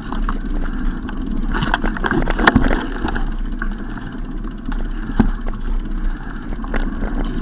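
Steady rumble of wind and road noise on the microphone of a moving bicycle, broken by scattered sharp clicks and knocks.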